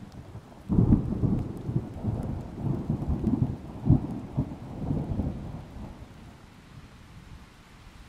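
Rain falling, with a loud, uneven low rumble that starts about a second in, lasts around five seconds and then dies away.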